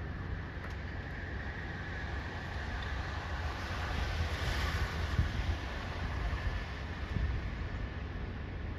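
Wind blowing, with a low rumble of wind on the microphone; the rush swells about four to five seconds in and then eases.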